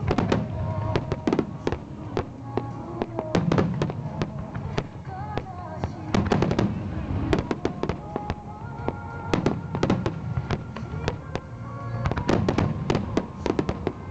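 Large aerial fireworks shells bursting in rapid, dense volleys, many sharp bangs a second with deep rumbling reports. Music plays alongside.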